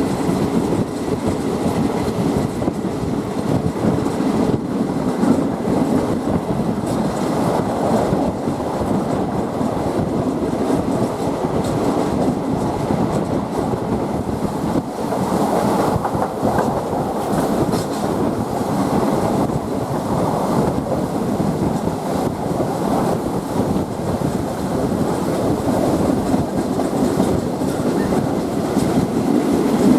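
A State Railway of Thailand passenger train running along the track, heard from on board: a steady running noise with wheels clicking over the rail joints.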